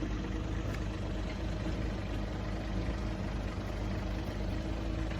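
A fishing boat's engine idling steadily, with an even low pitch that does not change.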